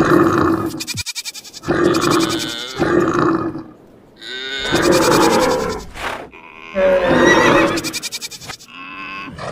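A run of animal call sound effects from assorted farm and wild animals, about five separate calls one after another with short gaps between them, some sliding up and down in pitch.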